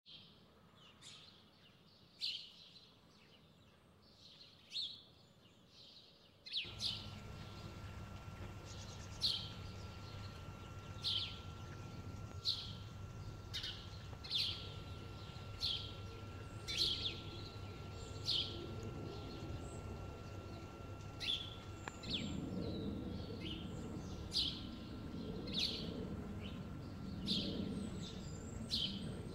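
A bird calling over and over: short, sharp chirps that drop in pitch, about one a second. A low, wavering drone joins underneath in the last several seconds.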